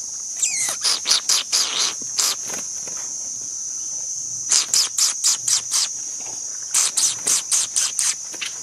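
Caged songbird singing three bouts of quick chirping notes, over a steady high drone of insects.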